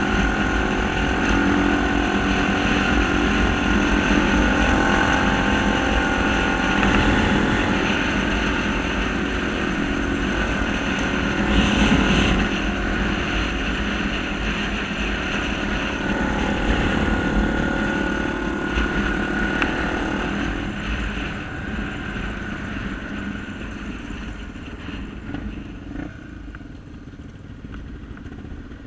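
Honda XR250 Tornado trail motorcycle engine running steadily, then fading gradually over the last several seconds.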